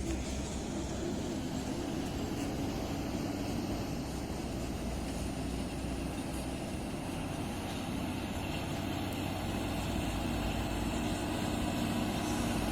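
Heavy dump truck's diesel engine running steadily, a little louder near the end.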